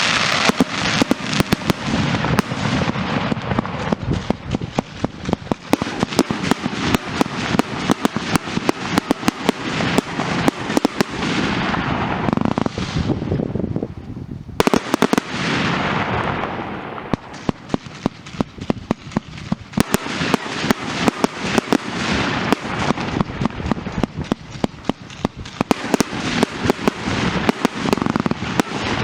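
Funke fireworks going off: a dense, rapid string of cracks and pops over a hissing wash. It thins out briefly twice, with a single sharp bang about 14 seconds in, then builds up again.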